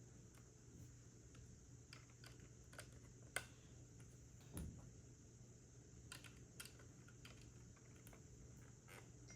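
Scattered light clicks of plastic LEGO pieces being handled and pressed together, with one sharp click about three and a half seconds in and a duller thump about a second later.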